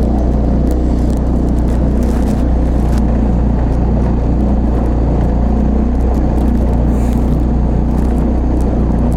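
Two-stroke 25 horsepower outboard motor running steadily at constant throttle, heard on board a small three-point hydroplane under way. It runs evenly with no chugging, a sign that fuel delivery is good.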